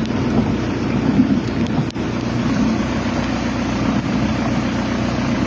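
Steady, loud rushing noise of a storm, wind and water together, with a brief break about two seconds in.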